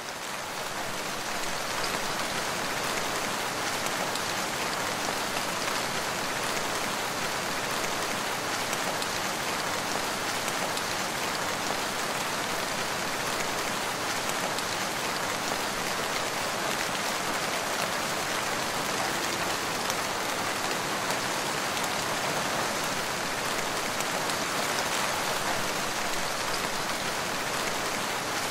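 Steady rain falling, a dense even patter of drops on leaves and ground, fading in at the start and then holding level.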